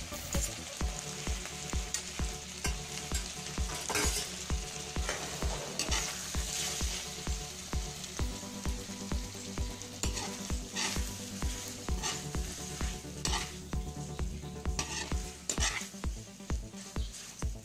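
Cooked spaghetti sizzling in hot oil in an aluminium pan as it is tossed and stirred, with occasional scraping strokes, over background music with a steady beat.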